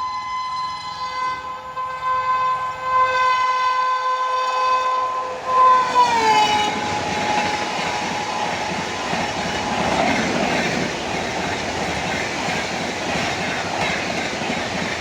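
Rajdhani Express train passing at speed: its locomotive horn sounds one long blast that drops in pitch as the locomotive goes by, about six seconds in. The rumble and clatter of the coaches' wheels on the track follow.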